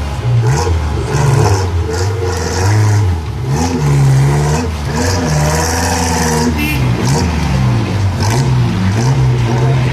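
Off-road 4x4 engine revving in uneven bursts, its pitch rising and falling again and again.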